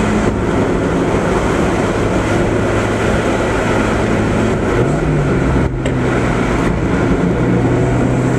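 Mazda Miata's four-cylinder engine running steadily at cruise under a constant rush of road noise. About five seconds in the engine note briefly rises, then settles slightly higher.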